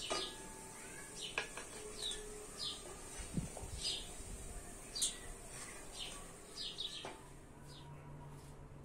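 Small birds chirping repeatedly, short high falling chirps about one or two a second, over a steady hiss of cutlets frying in oil that stops about seven seconds in.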